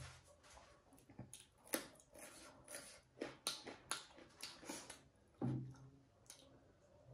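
Close-miked biting and chewing of a crisp raw carrot slice: a run of short, sharp crunches, with a low thud about five and a half seconds in.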